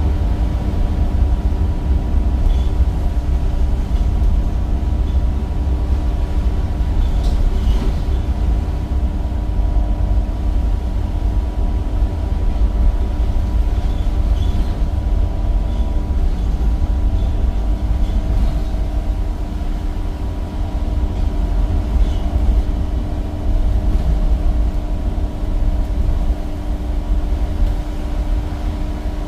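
Temsa Avenue bus with a replacement Cummins diesel engine and ZF gearbox, heard from on board while driving: a steady low rumble with a constant whine over it and light rattles.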